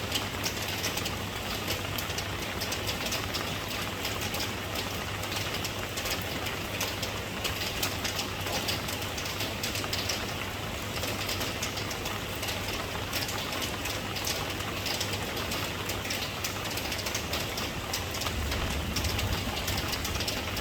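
Steady rain falling, a dense patter of drops over a constant low hum; a deep low rumble swells near the end.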